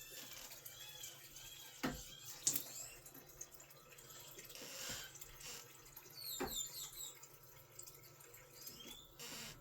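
Water running faintly, with a few sharp knocks or clicks: two close together about two seconds in and one more past the middle.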